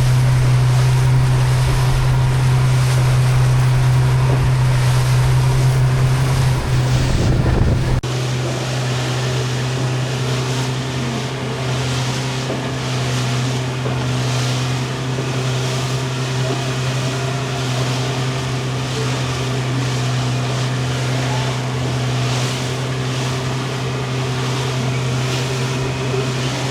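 Fishing boat's motor running steadily under way, with the hull slapping through choppy water in a regular beat. About eight seconds in, the low rumble drops away abruptly and the engine note carries on a little quieter.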